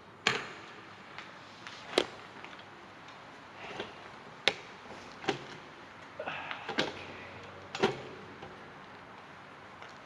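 Irregular sharp clicks and knocks, about seven in ten seconds, the loudest about two seconds in and again near the middle.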